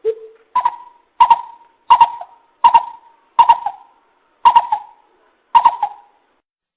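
Coucal lure call: a run of deep, hollow hoots. One lower note is followed by about eight higher ones at a steady pace of a little more than one a second, and the run stops shortly before the end.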